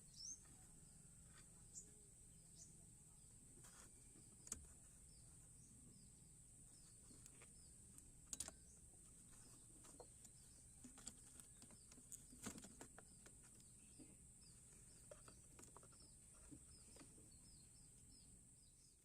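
Near silence: faint outdoor background with a steady high hiss, scattered small bird chirps and a few soft clicks.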